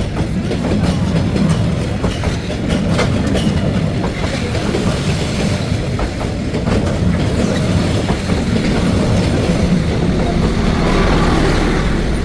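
Train passing at close range: a steady rumble of the locomotive and carriages, with the wheels clattering over rail joints.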